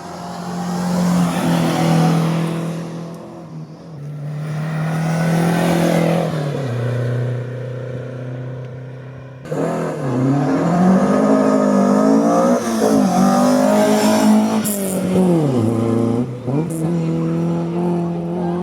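Hillclimb race cars at full throttle. Two pass in turn, their engine note swelling and fading. Then a louder car's engine revs hard, its pitch dropping and climbing again three times as it changes gear.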